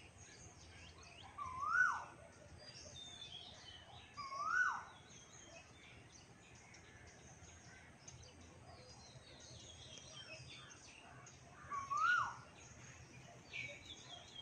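A bird gives a short whistled call three times, each a quick rise in pitch and then a sharp drop. Small birds chirp faintly in the background throughout.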